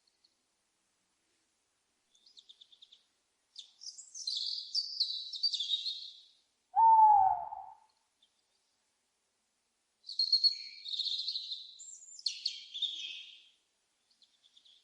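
Small birds chirping in high, busy bursts, with a single loud owl hoot about seven seconds in, one short note that slides slightly down.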